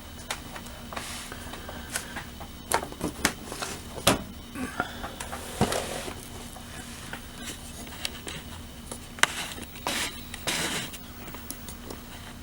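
Handling noise from a small plastic scale model being moved and turned by hand: scattered clicks and light knocks, a few short rustling swishes, over a faint steady hum.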